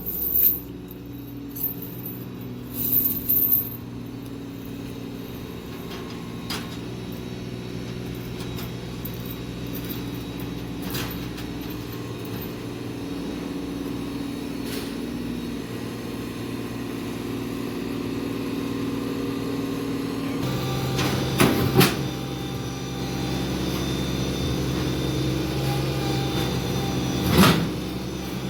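Compact tractor's diesel engine running steadily, its note shifting and getting stronger about twenty seconds in. Several sharp metal clanks or knocks are heard, near the start, around three seconds, twice a little past twenty seconds and once near the end.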